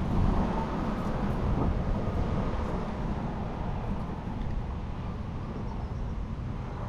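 Wind buffeting the microphone as a low, uneven rumble, strongest at the start and easing off.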